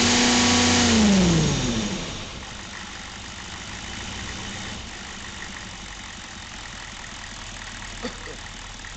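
GM 6.5-litre turbo diesel V8 held at raised revs, then dropping back to idle about two seconds in and idling steadily. A single short click comes near the end.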